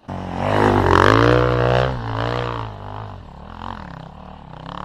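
Off-road motorcycle engine revving hard and unevenly, its pitch wavering up and down, loudest in the first two seconds, then dying away near the end.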